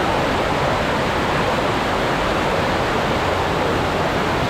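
Water of Dunn's River Falls rushing over the rock cascades: a loud, steady rush.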